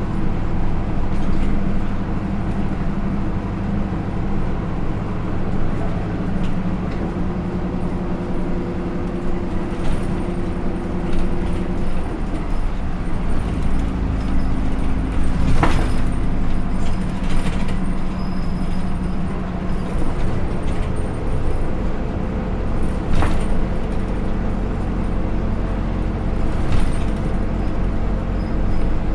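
Hino Rainbow II bus with its 4HK1-TCH turbo-diesel four-cylinder and Aisin automatic, heard from inside the cabin while running along the road. The engine note shifts up and down in pitch several times as the transmission changes gear and the speed varies. A sharp knock comes a little past the middle, with a few lighter rattles and clicks.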